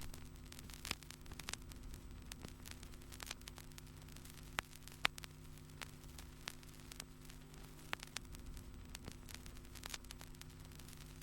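Faint steady electrical-sounding hum with scattered sharp clicks and ticks.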